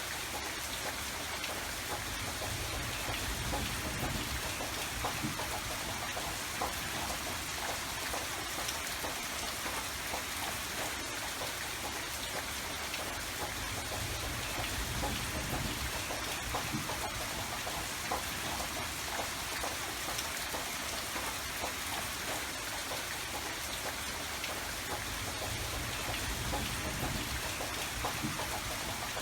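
Steady rain falling, with many small drop patters on a surface and a soft low rumble underneath that swells and fades.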